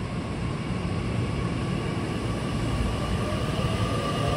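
Nishitetsu 9000-series electric train pulling out of a station: a low rumble of wheels on rail with a faint electric motor whine, growing louder toward the end as it gathers speed.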